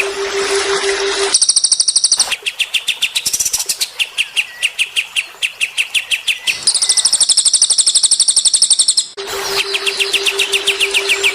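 Cage-bird song of cililin and kapas tembak: fast runs of sharp repeated chirps, broken by two spells of very high, rapid trilling, the first about a second in and the second in the middle. A steady low hum runs under the chirps at the start and again near the end.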